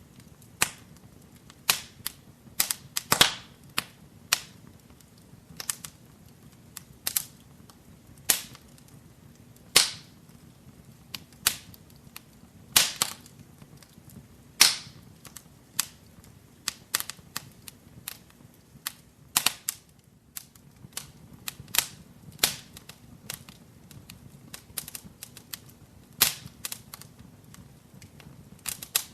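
Wood fire crackling in a fireplace: irregular sharp pops and snaps, several louder ones scattered throughout, over a faint low rumble of the flames.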